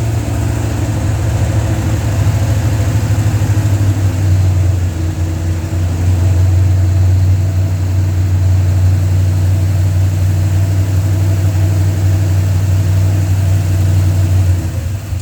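Dodge 360 LA V8 running steadily at a raised idle, its sound falling away near the end as the revs drop. The engine won't idle below about 1,500 rpm, which the owner takes for a serious vacuum leak, probably at the intake or carburetor gasket.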